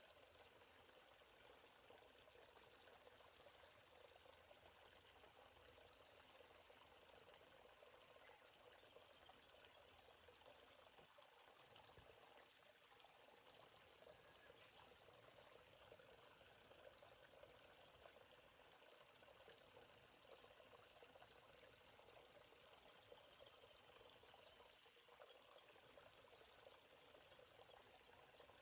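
Steady, high-pitched chorus of insects shrilling continuously, with the faint babbling of a stream underneath.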